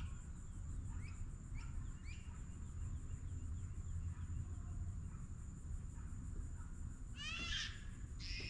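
Birds calling: scattered short chirps, then a louder run of rapid repeated notes near the end, over a steady low rumble.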